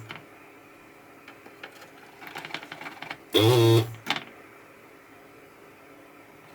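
A few light clicks, then one loud half-second mechanical buzz with a low hum and overtones that bend in pitch, about three seconds in.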